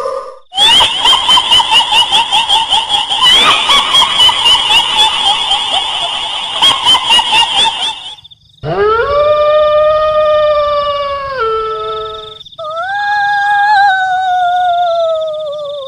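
Kuntilanak ghost sound effect: a high, shrill cackling laugh that pulses rapidly for about eight seconds. It is followed by long drawn-out wailing cries, the last sliding slowly down in pitch.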